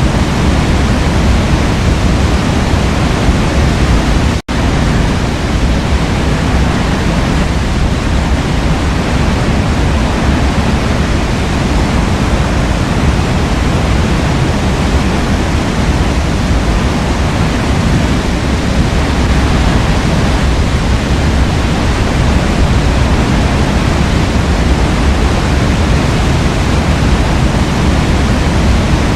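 Waterfall: the steady, full rush of falling water, heavy in the low end. It cuts out for a split second about four and a half seconds in, then carries on unchanged.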